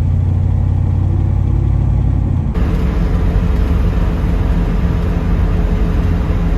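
1972 Ford Mustang Mach 1's V8 engine running while the car is driven, a steady low hum with road noise. About two and a half seconds in the sound changes abruptly to more road and wind noise over a steady hum.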